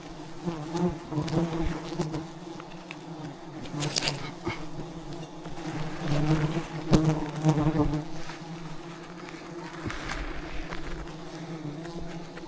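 A mass of giant honey bees (Apis dorsata) buzzing steadily at the nest, with a few sharp knocks, the loudest about seven seconds in.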